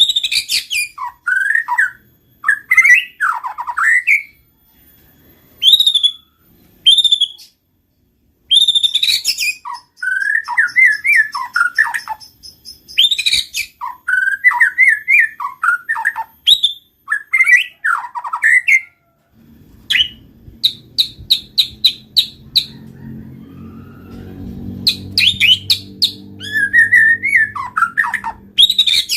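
White-rumped shama singing loud, varied phrases of fast whistled notes with short pauses between them. About twenty seconds in there is a quicker high trill of repeated notes, and a low steady hum sets in underneath from then on.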